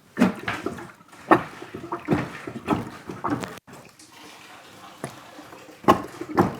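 Plunger pumped up and down in a water-filled kitchen sink to force out a blockage between the drain and the trap: repeated strokes with water sloshing, about one or two a second, easing off for a couple of seconds past the middle before two more strokes near the end.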